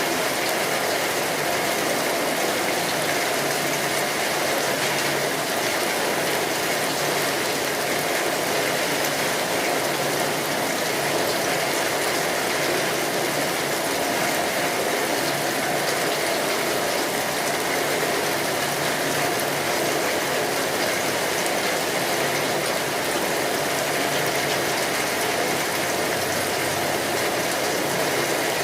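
Steady rain on a tin roof, a dense even patter, with a wood fire crackling.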